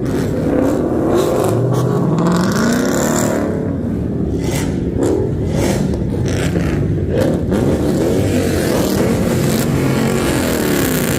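V8 muscle car engine revved hard again and again, loud throughout, its pitch rising and falling with each rev.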